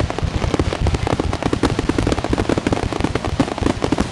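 Fireworks finale barrage: a rapid, unbroken string of bangs and crackles from many shells bursting at once.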